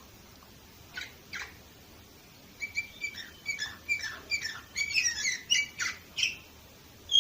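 Canary singing: two short notes about a second in, then a quick run of varied chirping notes from about two and a half seconds, with a loud note near the end.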